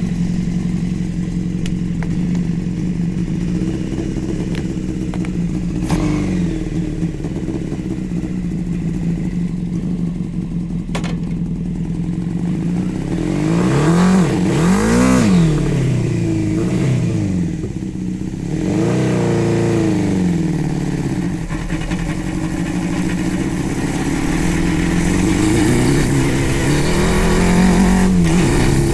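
A 600cc engine in a home-built Power Wheels go-kart running under way. It holds a steady note for the first half, then the revs rise and fall a few times past the middle and again near the end.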